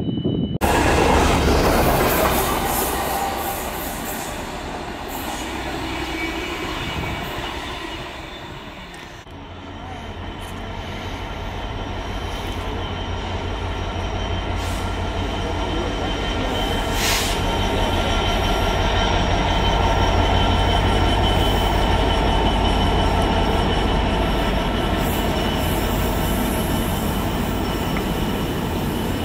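Class 66 diesel freight locomotive with its two-stroke V12 running, hauling an intermodal container train past: a steady low engine throb that grows louder from about ten seconds in and stays loud as the wagons roll by. Before that, a louder train sound fades away over the first nine seconds.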